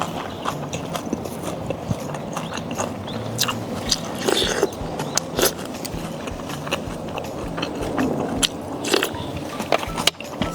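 A person eating: chewing and biting, with many small sharp clicks and smacks scattered through.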